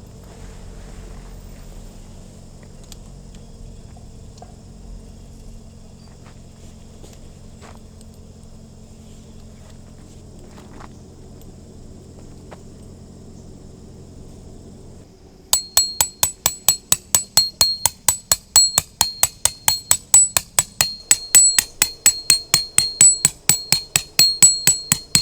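A hammer driving a steel tent peg: rapid, even metallic strikes with a ringing tone, about four to five a second, starting about 15 seconds in after a stretch of low, steady background hum with a few small clicks.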